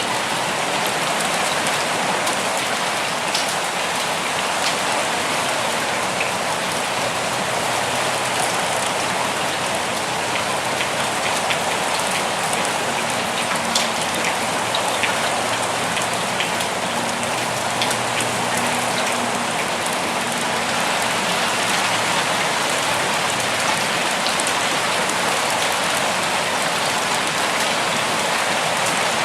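Steady rain falling at an even level, with many individual drops ticking sharply close by.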